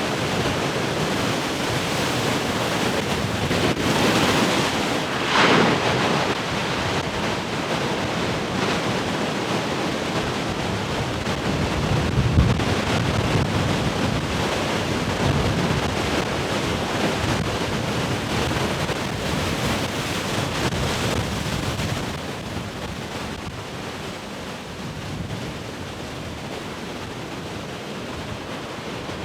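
Large ocean waves breaking and surging on the shore, with wind gusting on the microphone. The surf builds to loud crashes about five seconds and again about twelve seconds in, then falls quieter for the last several seconds.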